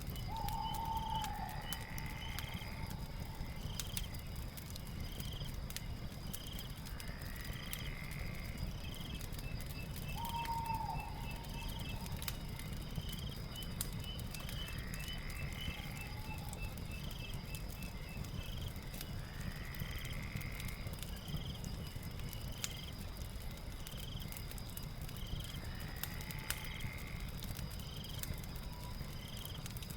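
Fireplace crackling, with sparse sharp pops over a steady low rumble, layered with a night ambience. The ambience holds a steady high insect trill, short chirps about once a second, and animal calls that come back every few seconds.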